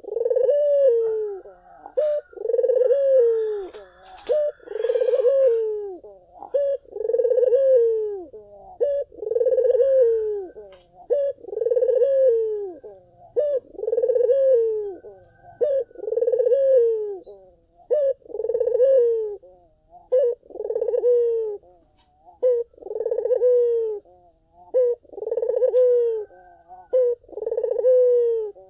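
Barbary dove (puter) cooing repeatedly: a steady run of low coos, about one every second and a half, each rising and then falling in pitch.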